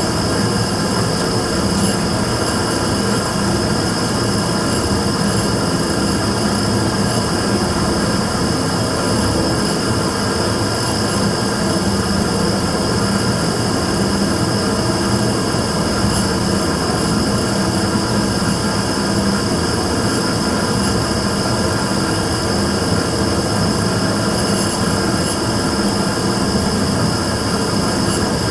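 Immersion tube burner running with a steady, even noise, a hum and a constant high-pitched tone. This is the abnormal noise (異音) the burner is recorded for.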